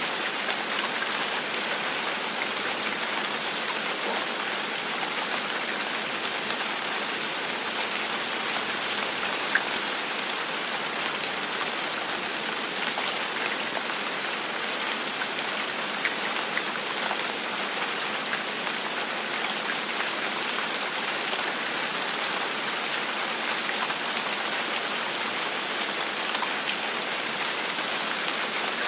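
Steady gentle rain falling on a surface, an even hiss of many drops with small individual drop ticks scattered through it, one a little louder about ten seconds in.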